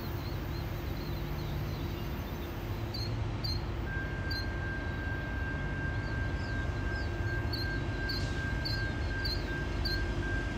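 Low steady rumble of an approaching freight train, growing slowly louder, with a small bird chirping repeatedly over it. A thin steady high whine joins about four seconds in.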